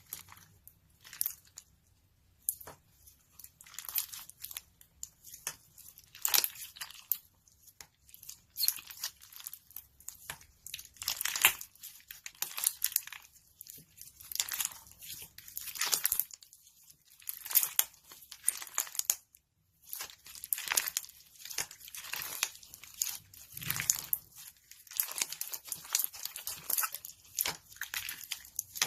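Slime being squeezed, pressed and stretched by hand, giving irregular crackling, crunching bursts one after another.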